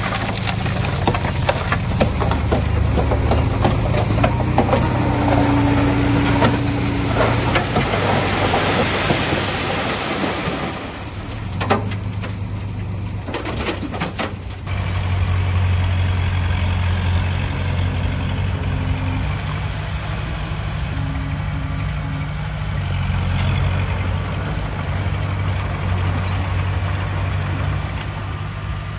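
Heavy diesel engines of earthmoving machinery (bulldozer and dump truck) running, with a dense rushing noise over the first ten seconds or so that drops away around eleven seconds in, leaving the steady engine sound.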